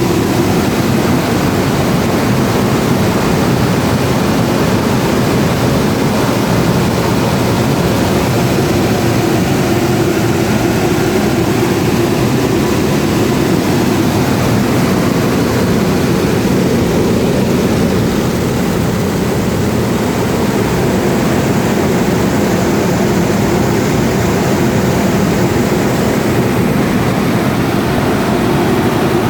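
Power generator's engine running steadily and loud, with an even, unbroken drone.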